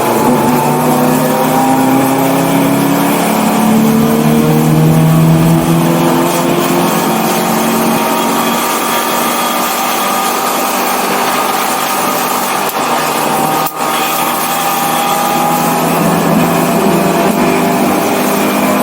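BMW 318i four-cylinder race car engine under hard load on track, its pitch climbing and falling as it is driven through the gears, with a brief drop in level at a lift or gear change about three-quarters of the way through.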